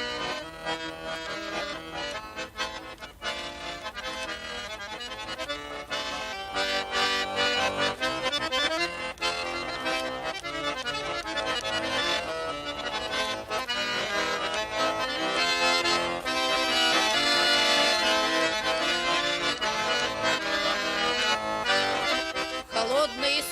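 Accordion playing a lively instrumental passage of chords and quick melody notes, an interlude between sung verses of a folk-style song.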